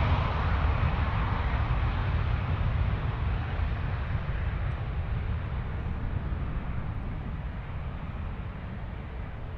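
Airbus A330's twin Rolls-Royce Trent 700 jet engines rumbling at takeoff thrust as the airliner climbs away, the sound fading steadily.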